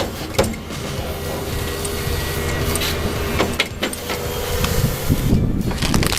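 Excavator fitted with a stump harvester head, its diesel engine running steadily under hydraulic load, with a few sharp knocks of the head working a stump.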